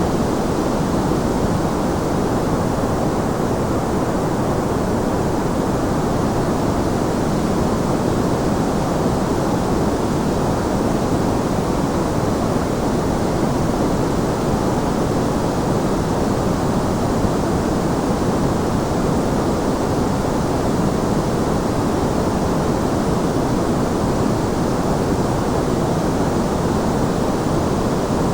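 Steady white noise: an even, unchanging hiss with no events in it, fuller in the low and middle range than at the top.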